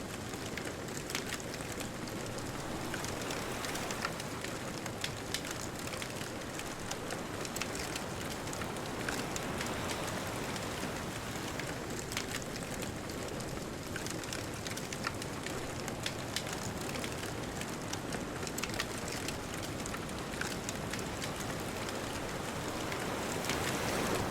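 Bonfire crackling, with many small sharp pops scattered through it, over a steady wash of distant ocean waves.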